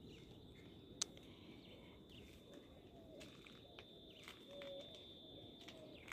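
Near-silent garden ambience: faint short bird calls, several brief gliding notes, over a steady thin high tone, with one sharp click about a second in.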